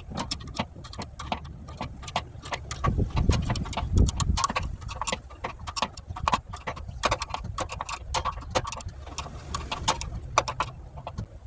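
Small wrenches working the bolts that hold a furnace blower motor to its mount: a run of irregular metal clicks, several a second, with low knocks about three to four seconds in.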